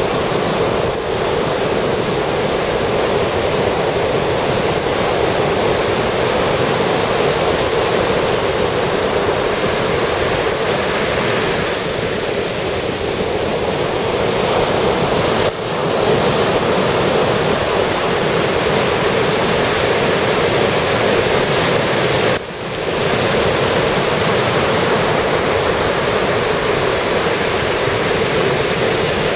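Ocean surf washing continuously onto the beach as a steady, loud rush, with two brief sudden dips in level partway through.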